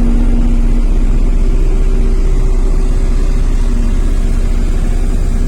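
JCB Vibromax soil compactor's diesel engine running steadily with an even low throb, and a whine above it that steps up in pitch about a second in.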